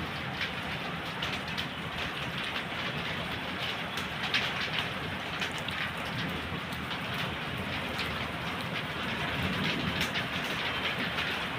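Steady rain falling, with many separate drops ticking over a constant hiss and a low rumble underneath.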